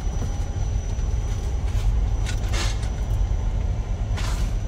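Sand-hauling truck's engine running with a steady low rumble, with a couple of short hisses partway through.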